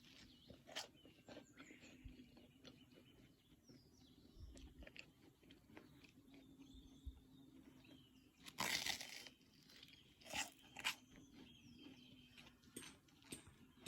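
Faint, scattered crunches and clicks, with one louder crunch about nine seconds in and two sharper ones soon after, over a faint steady hum.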